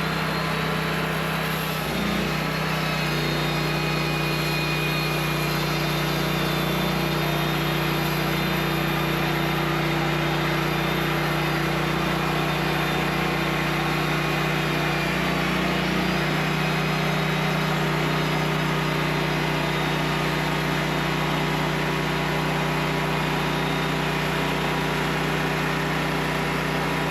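Engine of a custom-made sawmill running steadily at a constant speed, with a brief shift in pitch about two seconds in and again about midway.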